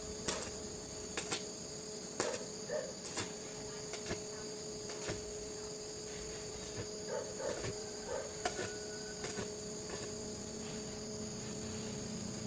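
A steady high-pitched drone with irregular sharp clicks and knocks on top, about one a second.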